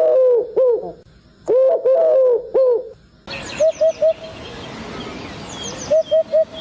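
Birds calling. First, one bird gives short rise-and-fall notes in runs of four, twice. Then, after an abrupt change of recording about three seconds in, a different bird gives three quick short notes twice, over a faint hiss with thin high chirps.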